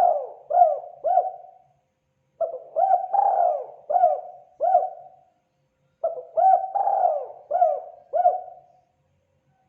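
Spotted dove (tekukur) cooing in phrases of about five soft coos each. The tail of one phrase is followed by two full phrases, with a short pause between them.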